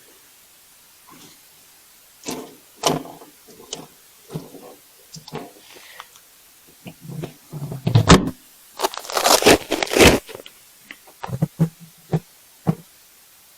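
Knocks, clatters and scrapes of objects being handled and shifted about, with a longer loud scraping, rustling stretch around nine seconds in and a few sharp knocks near the end.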